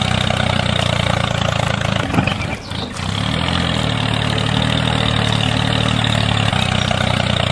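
Tractor engine running steadily, with a brief drop about two and a half seconds in before it picks up again with a slight shift in pitch.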